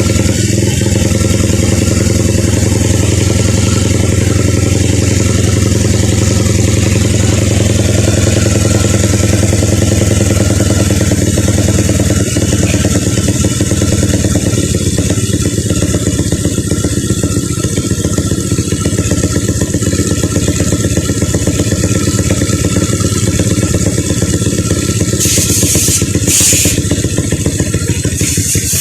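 Upgraded Honda XRM 125 single-cylinder four-stroke engine, with a four-valve big-valve head, 72 mm cylinder and 32 mm carburettor, running loudly at a steady speed. A few short hissy bursts come near the end.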